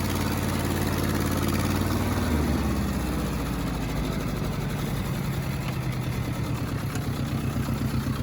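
1947 Ford 8N tractor's four-cylinder flathead engine running. It drops to a lower speed about two seconds in, then idles with an even, pulsing beat.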